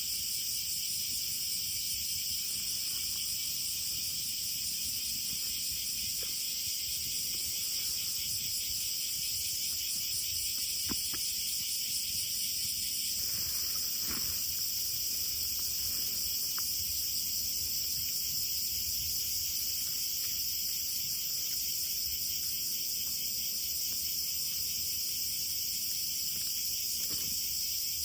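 Steady insect chorus, a continuous high-pitched chirring, with a few faint clicks here and there.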